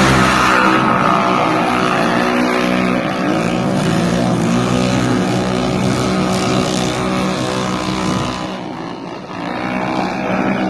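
Quad bike engine running under throttle, its pitch wavering up and down as it revs, briefly quieter about nine seconds in.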